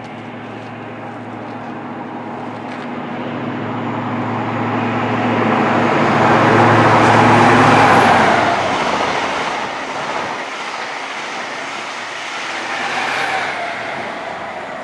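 Class 43 High Speed Train passing through the station: the diesel power car's engine and wheel noise build to a peak about halfway through, then ease off, with a smaller rise again near the end as the rear power car goes by.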